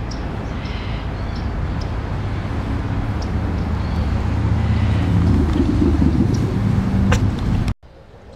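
Low rumble of a motor vehicle engine, growing steadily louder, which cuts off suddenly near the end.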